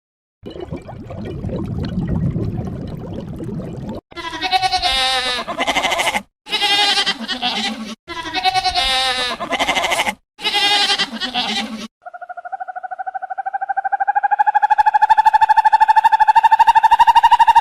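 Bleating livestock: four quavering bleats in a row, each cut off abruptly, after a few seconds of low rumbling noise. A long steady high-pitched call follows, growing louder over several seconds.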